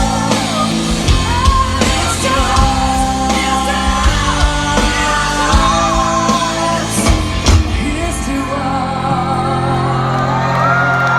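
Live band playing loud music with sung and yelled vocals and drums; the drums stop about eight seconds in, leaving long held notes ringing.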